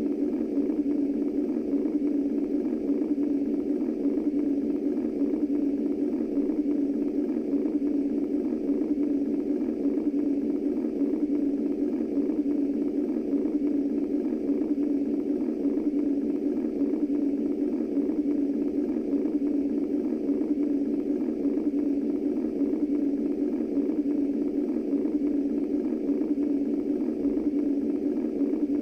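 Womb-style white noise: a steady, low rushing hum that does not change.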